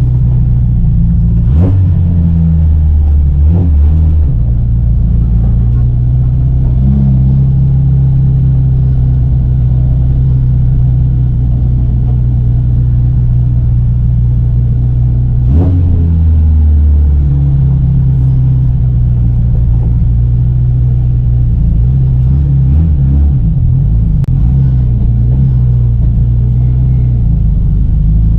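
Onboard sound of a Volvo Amazon 121 race car's four-cylinder engine running hard under racing load, its note held steady for long stretches. The pitch drops suddenly about 2 seconds in and again about halfway through, then wavers for a few seconds near the end as the revs change with gear shifts and lifts.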